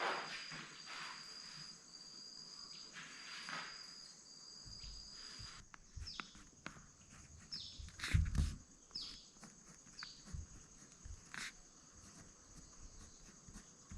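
Footsteps outdoors against a steady chorus of insects, with a high pulsing insect call in the first half and then four short falling chirps about a second and a half apart.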